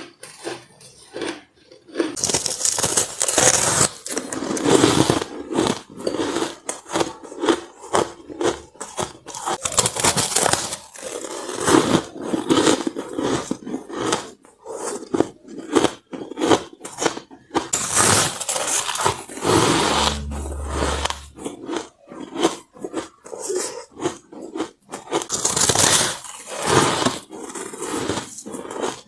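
Close-miked crunching of white shaved ice being bitten and chewed: several loud bouts of crisp, squeaky crunching, with quieter crackling chews between bites.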